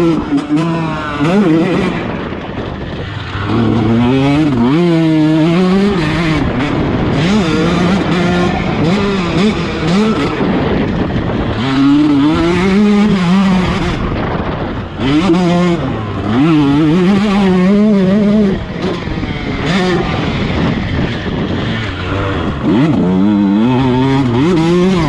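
2019 KTM 150 SX's two-stroke single-cylinder engine being ridden hard, its pitch climbing and dropping again and again as the rider works the throttle and gears.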